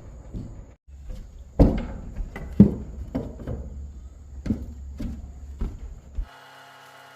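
A series of irregular knocks and thuds, roughly one every half second to a second, over a low rumble, the loudest two near the start. Near the end it cuts off suddenly to a steady hum of several held tones.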